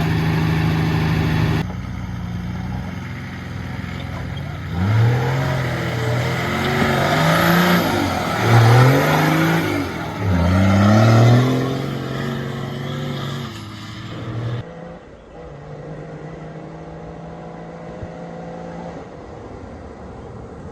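Nissan GQ Patrol's 4.2 litre straight-six turbo diesel revving up hard about four times in quick succession, then holding a steady high run. Near three-quarters through it drops suddenly to a quieter, steady running sound.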